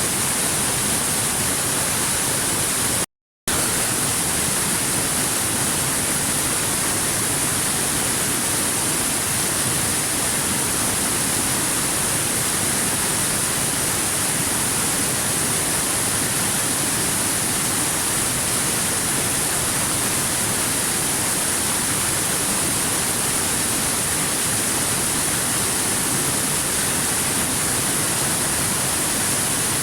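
Waterfall rushing: a steady, even hiss of falling water with no changes, broken only by a brief cut to silence about three seconds in.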